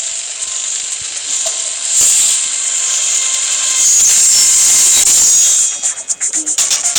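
Beyblade spinning tops whirring in battle: a steady, high-pitched hiss. A little before the end it gives way to a fast pulsing rhythm.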